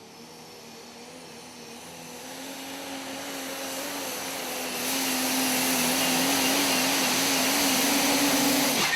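Super stock diesel pulling truck running flat out on a pull, its engine note with a high turbo whine above it. It climbs slowly in pitch and grows much louder over about five seconds, then holds with a slight waver before cutting off suddenly near the end.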